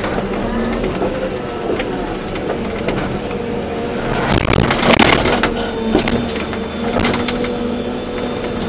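Volvo EC240B excavator working: the diesel engine and hydraulics run under load with a steady hum that shifts slightly in pitch, while the bucket and soil clatter irregularly, loudest in a burst about five seconds in.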